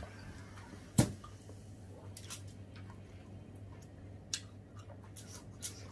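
Close-up eating noises: soft wet chewing and small clicking mouth sounds from people eating watermelon. One sharp knock about a second in is the loudest sound.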